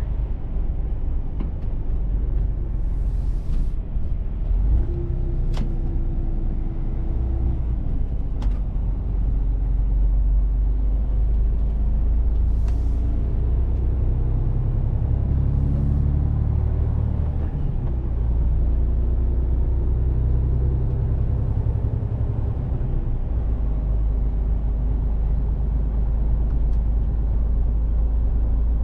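Mercedes-Benz Actros truck running on the road: a steady deep engine rumble whose pitch rises and falls with acceleration and gear changes. There are two short hisses, about three seconds in and again about twelve seconds in, and a few sharp clicks.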